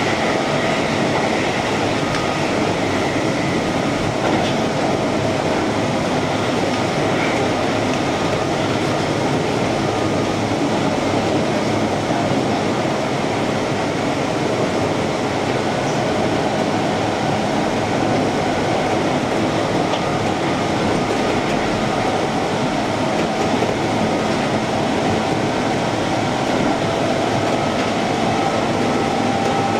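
Keihan electric train running at steady speed, heard from inside the front car: a constant rumble of wheels on rail with faint steady tones over it.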